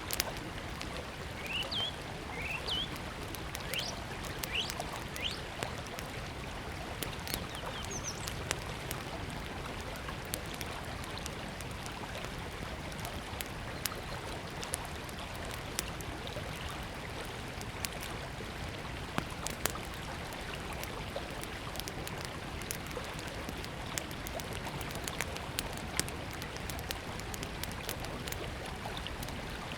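River water flowing steadily under a small wood campfire crackling and popping. A bird gives a few short rising chirps in the first several seconds.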